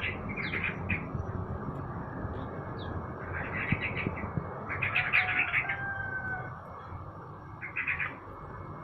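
Caged songbirds chirping in several short bursts of rapid chirps, with a brief thin whistle about two-thirds of the way through, over a steady low background hum.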